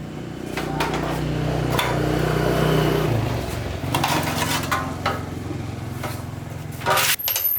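Motorbike engine running, dropping in speed about three seconds in, then stopping abruptly near the end. Sharp metallic clicks and knocks sound over it.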